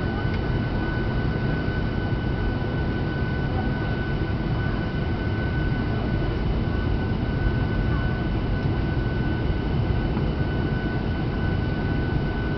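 Steady cabin noise inside a Boeing 737-800: a low hum of engines and airflow with a thin, steady whine on top, unchanging throughout.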